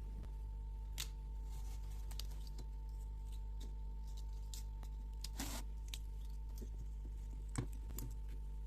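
Scattered light clicks and taps of small parts being handled at a workbench, with a short scraping rustle about five seconds in and a sharper click near the end, over a steady electrical hum.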